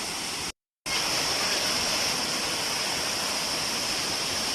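Waterfall of mountain spring water, a steady loud rushing. A brief total dropout about half a second in breaks it, and the rush comes back slightly louder.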